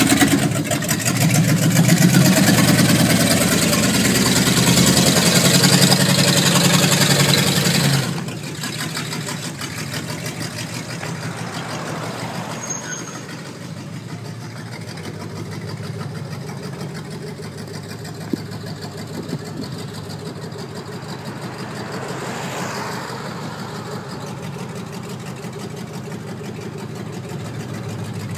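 Classic Dodge Charger engine running close up, loud and steady. About eight seconds in it drops to a quieter, more distant sound as it keeps running by the roadside. Near the end a passing car swells and fades.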